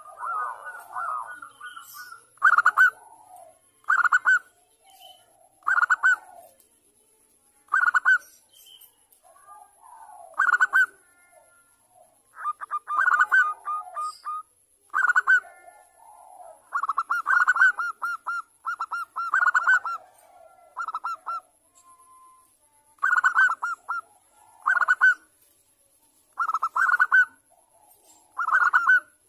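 Zebra dove (perkutut) cooing: short rippling, trilled phrases repeated every second or two, some strung together in quick runs. A faint steady high-pitched tone lies underneath.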